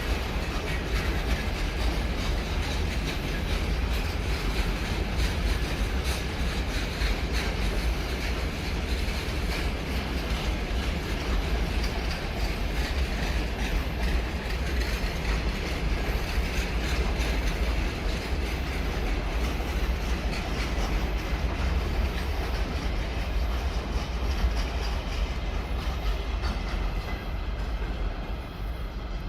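Train passing on the line: a steady rumble of wheels on rail with clickety-clack. The hiss thins out and it grows quieter near the end.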